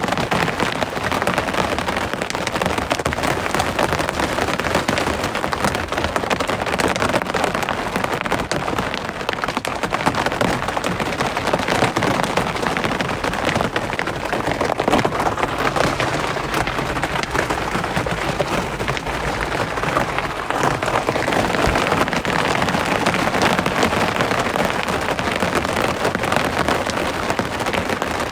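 Rain falling steadily, a dense, even patter of many drops.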